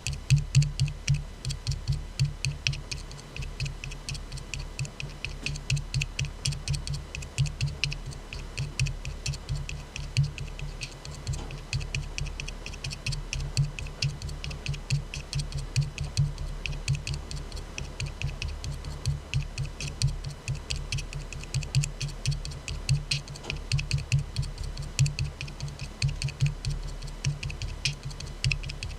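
Tapping on an aluminium soda can: a steady, uneven run of quick, light taps, several a second.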